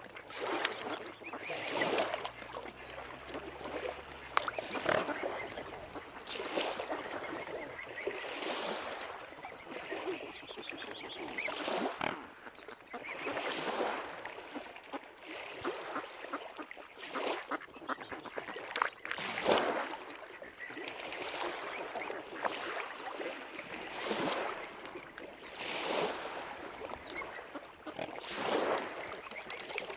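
Waterfowl calling, with water lapping in swells about every two seconds.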